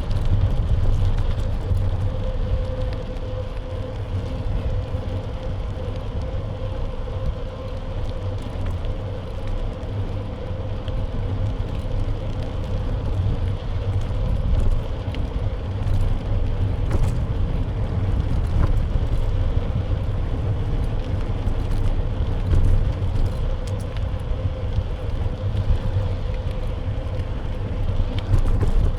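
Steady wind and road rumble from riding a bike, picked up by a camera mounted on its frame, with a faint steady hum running through it.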